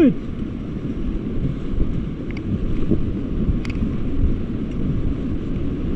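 Rushing river water with wind buffeting the microphone, a steady low rumbling noise as the raft paddles forward through the current.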